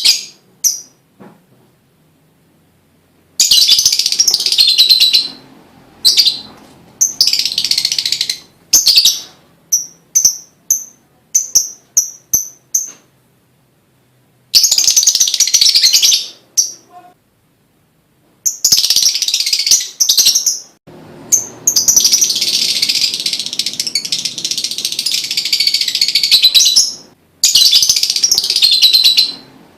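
Lovebird singing in shrill, rapid chattering phrases with short silences between them, a string of short separate chirps in the middle, and one long unbroken trill of about six seconds near the end.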